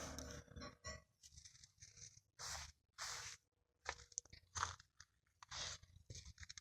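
Faint crunching footsteps: a series of short, irregular steps, roughly one every half second to a second.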